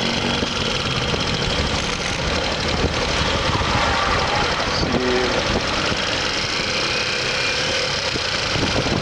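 Motorcycle being ridden on the road: the engine runs steadily under a constant rush of wind and road noise. A brief tonal sound, likely from passing traffic, comes about five seconds in.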